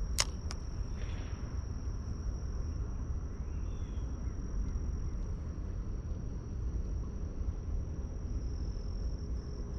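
Insects trilling steadily on one high note over a low outdoor rumble, with two sharp clicks right at the start.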